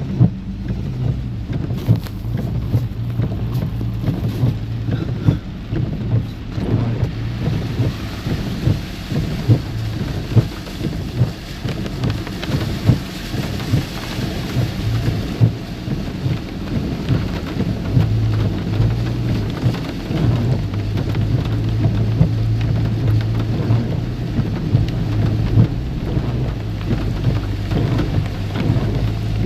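Heavy rain pattering on a car, dense small ticks of drops over a steady low hum.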